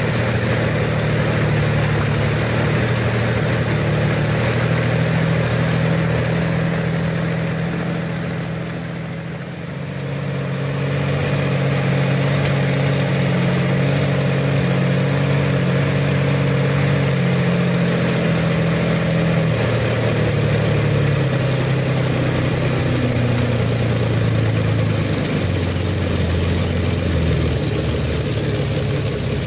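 Rolls-Royce Merlin 25 V12 engine running steadily at low speed with no load, normally aspirated through a Holley 850 carburetor. Its loudness dips briefly about nine seconds in, and its pitch steps down slightly twice in the second half.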